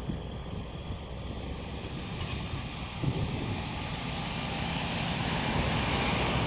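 Wind buffeting the microphone over the rumble of trucks driving out, with low thumps from gusts and a hiss that swells from about two seconds in.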